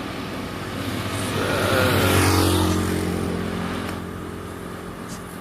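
A motor vehicle drives past close by: its engine and tyre noise swell to a peak about two seconds in, then the engine note drops in pitch and fades as it moves away.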